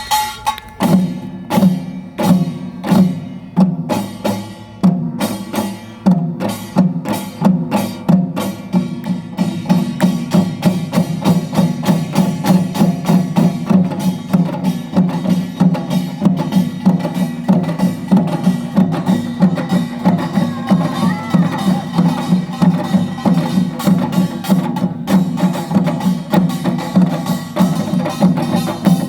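Samulnori percussion ensemble playing: kkwaenggwari small gongs clanging over janggu hourglass drum, buk barrel drum and the ringing jing gong, in a fast, driving utdari rhythm. The strikes come in spaced phrases at first, then pack into a dense, continuous beat after about nine seconds.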